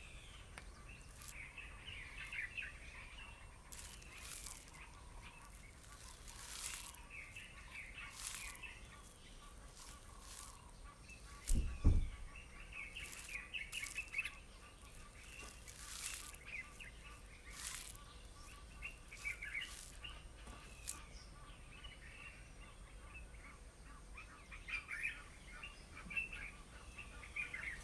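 Faint chirping and twittering of small wild birds in short runs again and again, with scattered sharp clicks. One dull low thump comes about twelve seconds in.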